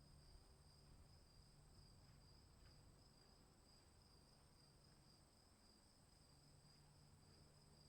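Crickets trilling faintly and steadily, an unbroken high-pitched chorus at two pitches.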